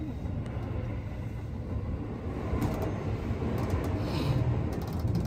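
Keihan Railway electric train running, a steady low rumble of wheels on rails heard from inside the passenger car, with a brief hiss about four seconds in.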